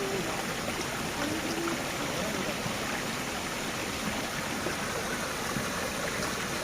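Steady rushing noise of running water, with a few faint voices in the background.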